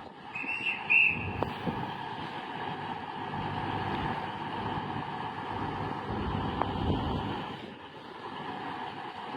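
Class 221 Voyager diesel multiple unit running at the platform, a steady engine hum with a whine, swelling a little near the end. Two short high beeps sound about a second in.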